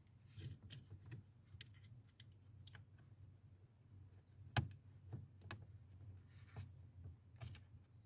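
Faint, irregular small clicks and taps, with one louder click about four and a half seconds in, over a low steady hum.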